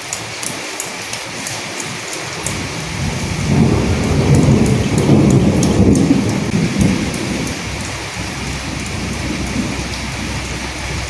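Steady rain falling, with fine ticks of individual drops. About three seconds in a low roll of thunder swells up, peaks, and fades away over about five seconds.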